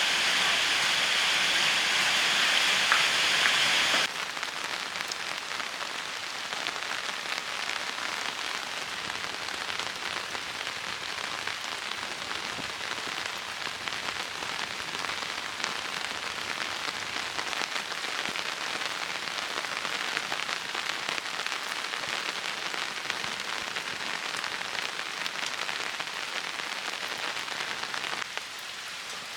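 Steady rain falling. It is loudest for about the first four seconds, then drops suddenly to a quieter, even rainfall.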